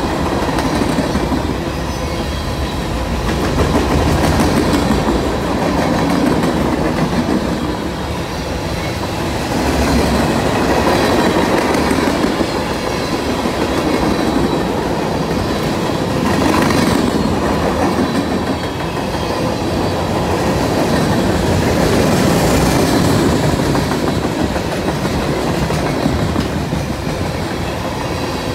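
Mixed freight cars of a passing manifest train rolling by close at hand. Steel wheels rumble and clack over the rails in a loud, continuous roll that swells and eases every few seconds.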